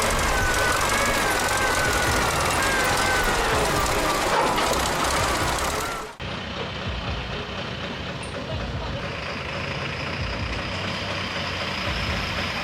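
Tractor engine running hard, with a wavering whine over it. About six seconds in the sound cuts abruptly to a quieter, steady engine running.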